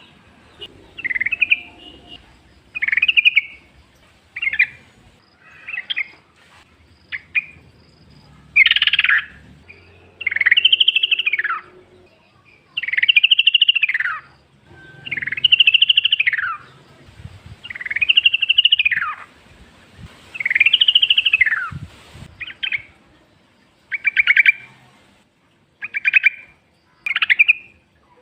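Yellow-vented bulbul singing over and over. It starts with short, quick phrases. From about eight seconds in come longer phrases, each about a second long, rising and then falling in pitch. Near the end it returns to short phrases.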